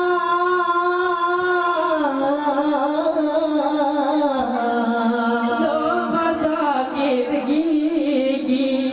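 Men singing a Saman chant in a high voice, holding long drawn-out notes that step down in pitch a couple of times.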